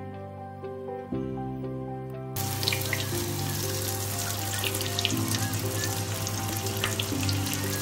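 Breaded pork cutlets frying in hot oil: a steady sizzle with scattered crackles, starting about two seconds in over soft background music.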